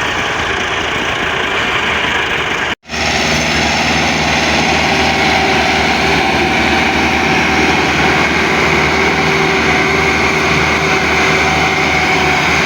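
Tractor diesel engine running steadily and loudly. The sound drops out completely for a moment about three seconds in, then the engine carries on.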